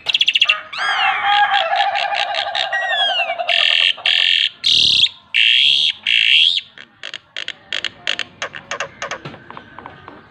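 A songbird singing a varied song: whistled glides and a fast trill, then several loud harsh rasping notes in the middle, then a run of rapid short clicking notes.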